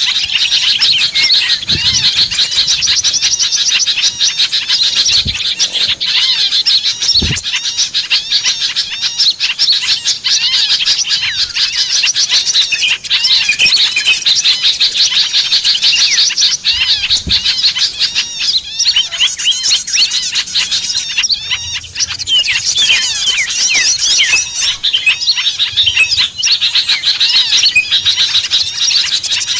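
A dense chorus of many small songbirds chirping and twittering without pause, rapid overlapping calls and trills: a bird-lure recording meant to draw small birds in.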